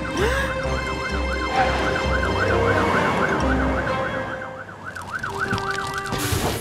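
Cartoon fire truck siren sounding, a fast up-and-down warble about three times a second, over a low pulsing rumble of engines; the warble stops just after six seconds.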